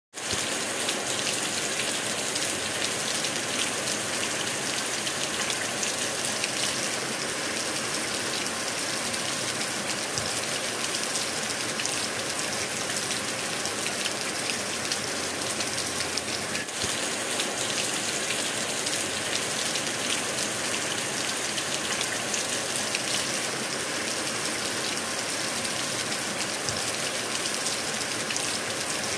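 Rain falling steadily: a dense, even hiss with a fine patter of drops.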